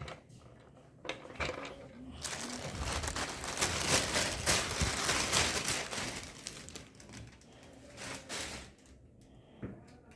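Crinkling and rustling from something being handled, with scattered clicks. A longer, louder stretch of crinkling runs from about two seconds in to past the middle.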